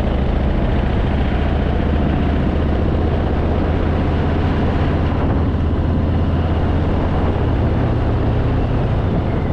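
Harley-Davidson Fat Boy's V-twin engine running steadily while riding, under a constant rush of wind noise.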